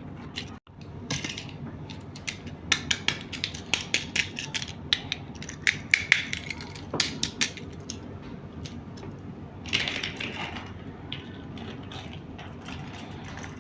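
Hard plastic toy parts being handled and fitted together: a quick run of sharp clicks and taps through the middle, a short rattle later on, then a few scattered ticks.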